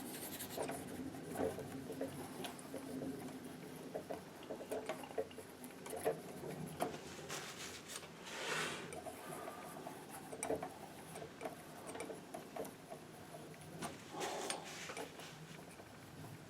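Palette knife scraping and tapping oil paint onto a primed painting board: a run of small taps and short scrapes, with a longer scrape about halfway through and more near the end.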